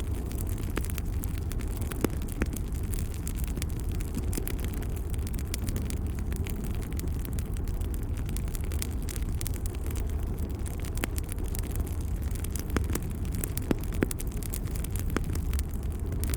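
Wood fire burning: a steady low rumble with frequent sharp crackles and pops scattered irregularly throughout.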